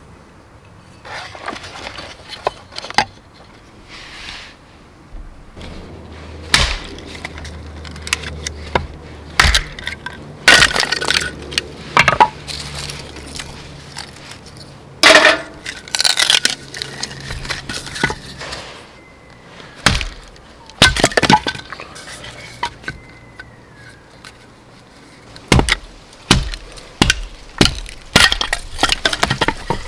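Dry wood being snapped and broken up by hand: a long run of irregular sharp cracks and snaps with short pauses between them.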